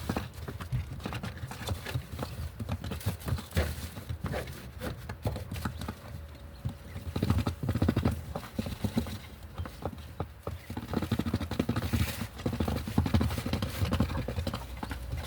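Irregular taps and knocks in quick succession throughout.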